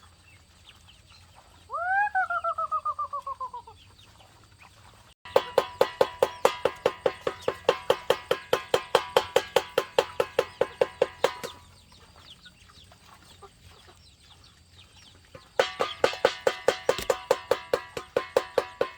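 Chickens: a drawn-out call falling in pitch about two seconds in, then two long runs of rapid, evenly spaced clucking.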